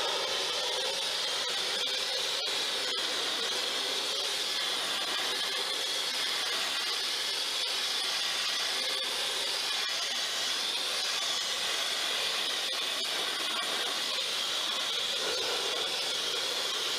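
Sandblasting gun blasting abrasive against a truck's frame rails to strip rust and old coating: a steady, loud hiss.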